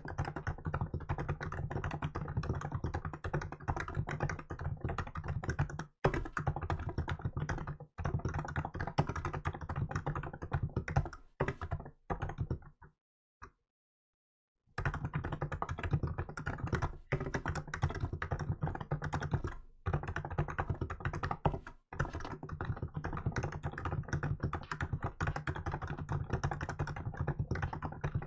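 Fast, continuous typing on a Hansung GK868B electrostatic capacitive (non-contact) keyboard with milk keycaps. The keystrokes come in a dense run that stops for about two seconds midway, then resumes.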